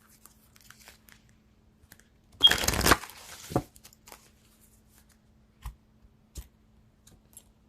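A deck of oracle cards being shuffled in one brief burst about two and a half seconds in, then a few light taps.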